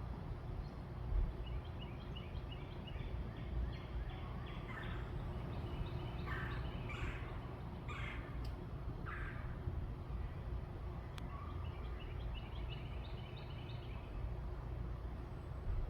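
Backyard birds calling: four louder, harsher calls in the middle, with fainter quick chirping before and after, over a steady low outdoor rumble.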